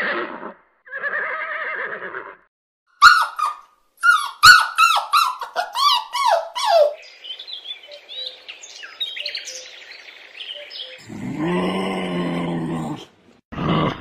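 A horse whinnying in a run of falling, quavering calls, then birds chirping, then a lower-pitched animal call near the end.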